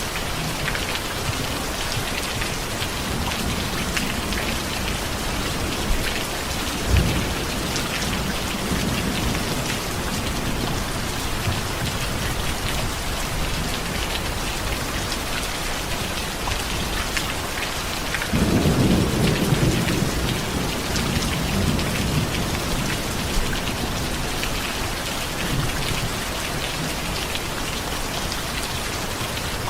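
Steady heavy rain with a low rumble of thunder about seven seconds in and a louder, longer rumble of thunder from about eighteen seconds in.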